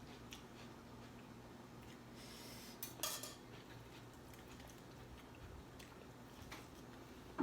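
Faint eating and tableware sounds at a meal table: a few light clicks, with a brief crisp rustle and clatter about two to three seconds in.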